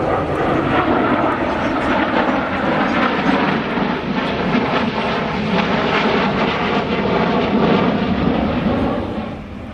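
A fixed-wing aircraft flying past, its engine noise loud and steady before falling away about nine seconds in.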